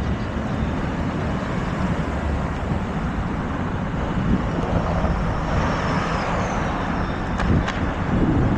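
Busy city street ambience: a steady wash of traffic noise, with a faint high squeal that falls in pitch midway and two sharp clicks near the end.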